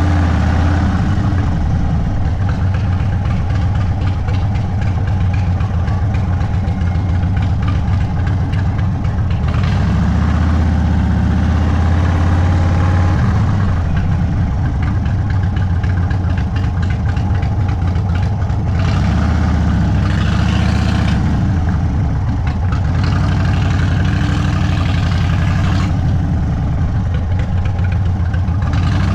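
Indian Sport Chief's V-twin running through an aftermarket Sawicki Speed exhaust at low, steady speed, the beat swelling a little a few times with light throttle.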